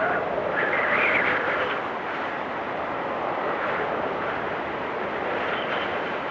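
Blizzard wind blowing steadily, with a gust that swells and whistles higher in the first two seconds.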